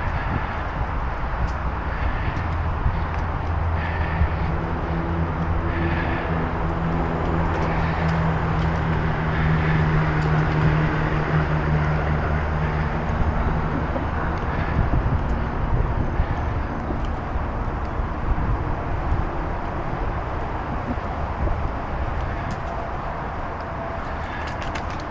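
Wind rushing over the microphone and rolling noise while riding a bicycle. A low droning engine hum swells up and fades away about midway through.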